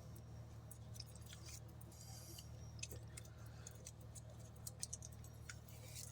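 Faint handling noises: scattered light clicks and rustles of paper and crafting tools being moved on a table, over a steady low hum.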